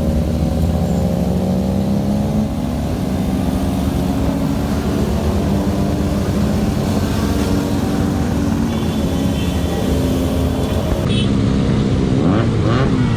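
Motorcycle engines running on a ride, their pitch drifting slowly up and down. Near the end, quick rises and falls in pitch come in.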